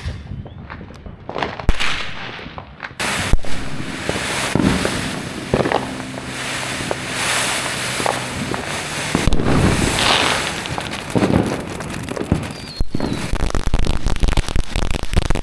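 Consumer fireworks going off: a few separate sharp bangs, then from about three seconds in a dense, continuous barrage of booms and crackling.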